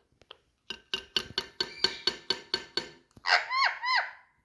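Indian ringneck parrot calling: a rapid run of short repeated chattering notes, about four or five a second, then a few louder squawks that arch up and sweep down in pitch, the loudest part near the end.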